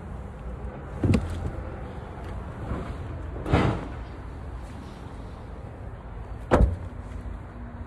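Toyota Corolla Cross's doors shutting three times, about two and a half seconds apart, the third the sharpest and loudest, over a steady low rumble.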